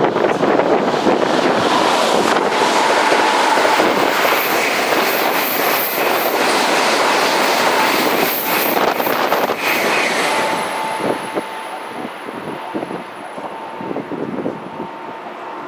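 Shinkansen bullet train passing at speed close by: a loud, dense rush of wheel and air noise for about ten seconds that then fades away.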